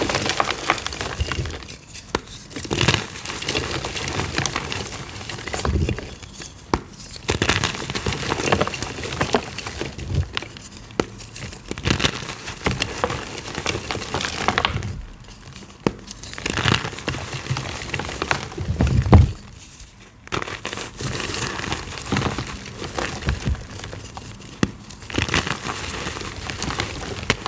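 Gym chalk being crushed by hand, crunching and crumbling into powder in bursts of a few seconds with short pauses between.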